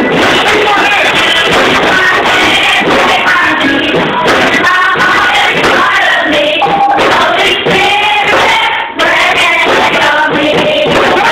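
Children's choir singing a gospel song with musical accompaniment, several voices together, with a brief pause about nine seconds in.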